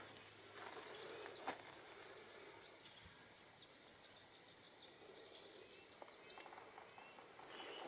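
Near silence: faint outdoor ambience with a few small, high bird chirps scattered through it.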